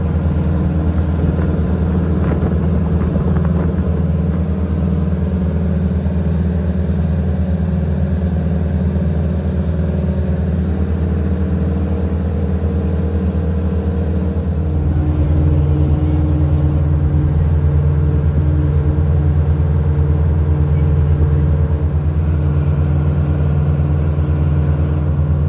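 Boat engine running steadily, a low drone heard on board. It changes note and gets a little louder about fifteen seconds in.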